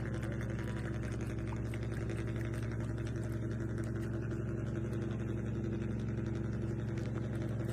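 A small electric motor humming steadily at an even pitch, with a rapid fine buzz.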